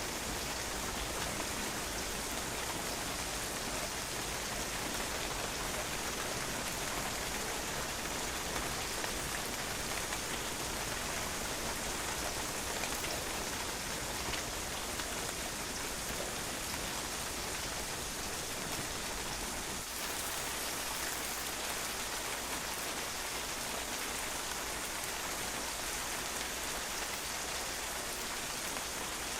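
Steady rain falling and splashing on a patio, a dense, even patter of drops.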